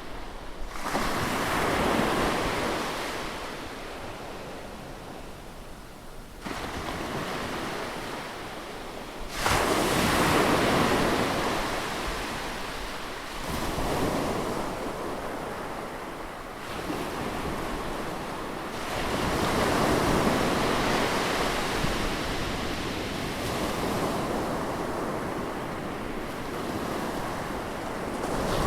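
Ocean surf on a beach: waves break one after another every few seconds, each surging up and then washing out, the loudest about ten seconds in.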